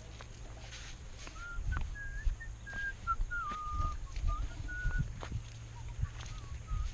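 Thin whistling in short, broken notes that waver and step up and down in pitch, with low knocks and clicks of handling underneath.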